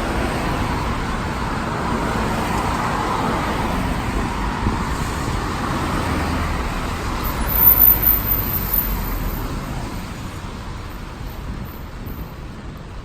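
Road traffic on a rain-wet street: a vehicle's tyres hissing over the wet road with an engine rumble underneath, loudest about eight seconds in, then fading away.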